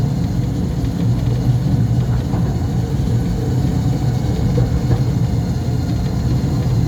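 Mail Rail's small battery-electric train running through its narrow tunnel: a steady low rumble of wheels on the rails and the traction motors.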